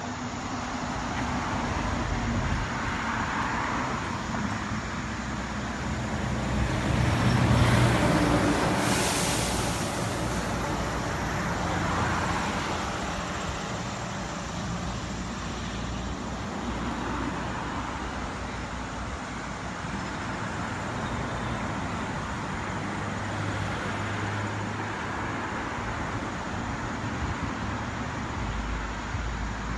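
Road traffic: cars passing by on the street, rising and falling as each goes past, with the loudest pass about eight seconds in.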